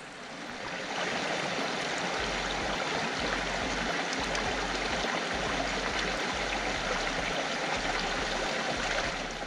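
A small freshwater stream of water running and splashing, a steady rushing, gurgling flow.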